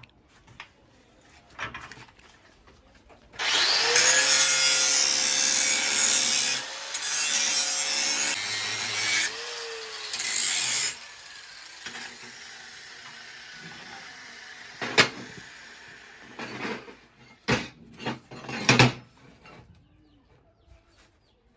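Angle grinder cleaning the bevelled edges of mild-steel plates before tacking: the motor runs in three passes from about three to eleven seconds in, its pitch wavering under load. A few sharp metal knocks and clinks follow near the end.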